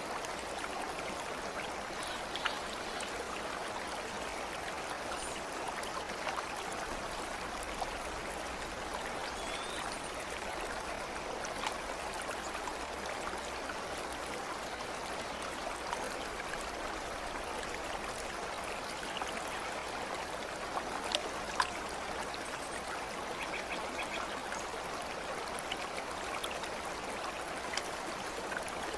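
Flowing stream: steady rushing water with no change in level, broken by a few faint short ticks.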